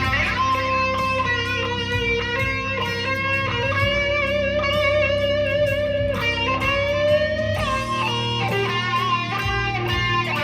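Electric guitar played through a Blackstar ID15 TVP amplifier with a Dunlop Cry Baby wah pedal: a continuous run of held notes and bends, several wavering in pitch, over a low sustained note.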